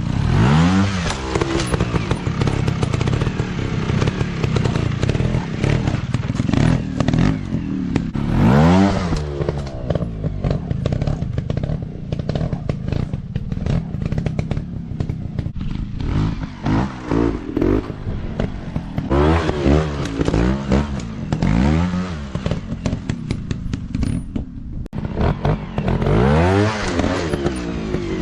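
Dirt bike engine revving up and dropping back again and again, with many short knocks and clicks mixed in.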